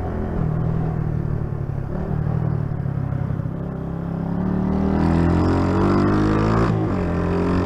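Honda CG 125 Titan's single-cylinder four-stroke engine running under way, then revving up over a couple of seconds from about four seconds in and dropping abruptly near the end, as at a gear change.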